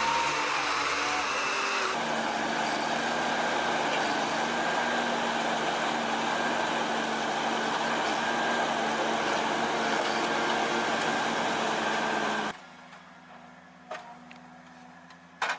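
Steady, noisy running of machinery, with a constant hum beneath it, that cuts off abruptly near the end, leaving only faint sound and a couple of clicks.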